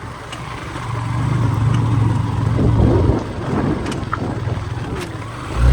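A motor vehicle engine running with road noise. The low engine sound grows louder about a second in and drops back shortly after the middle.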